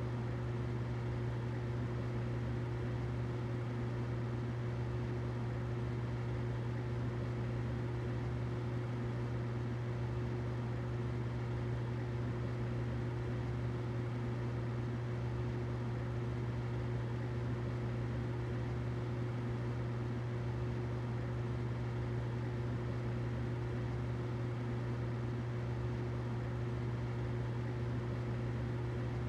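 Humidifier running steadily: a low hum with a fainter, higher steady tone over an even hiss, unchanging throughout.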